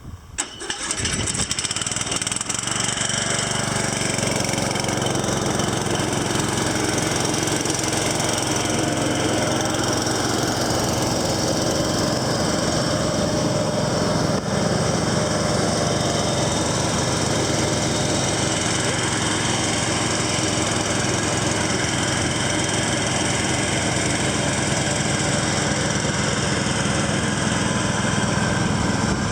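Huskee 17.5 HP lawn tractor engine starting right at the beginning and then running steadily.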